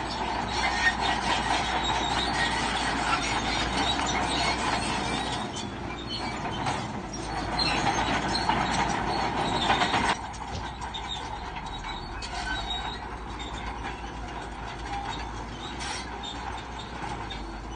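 Crawler bulldozer working, its engine running under the clank and squeal of its steel tracks. It gets noticeably quieter about ten seconds in.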